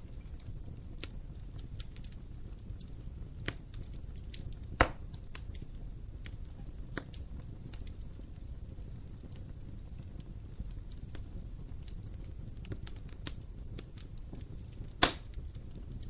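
Wood fire in an open fireplace, crackling steadily over a low rumble of flames, with many small ticks and two sharp, louder pops, about five seconds in and near the end.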